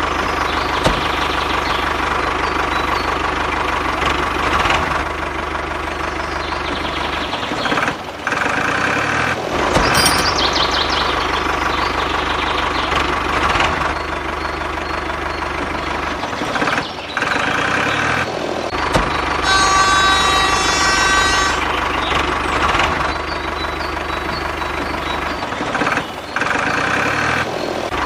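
An engine running steadily, in stretches broken by brief drops about 8, 17 and 26 seconds in. A held pitched tone sounds over it for about two seconds around 20 seconds in.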